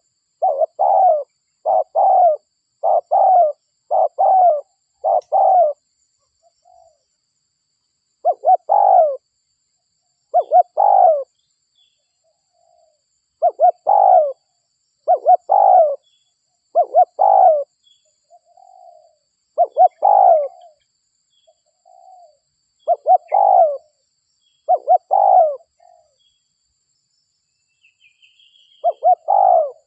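Spotted dove (derkuku) cooing: short multi-note coo phrases repeated about once a second at first, then in spaced groups with pauses and a few softer coos between. A faint short chirp from another bird near the end.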